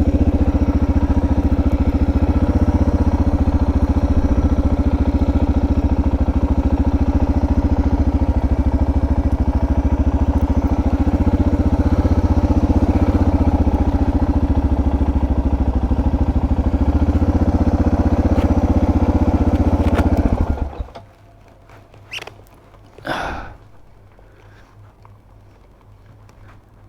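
Suzuki DR650's single-cylinder engine running at a steady pace, which stops about three-quarters of the way through. A couple of brief faint sounds follow.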